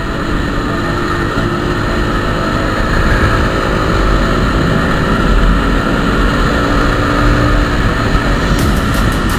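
Steady rush of wind and vehicle noise heard while riding, with a strong low rumble. Near the end a run of regular high ticks starts.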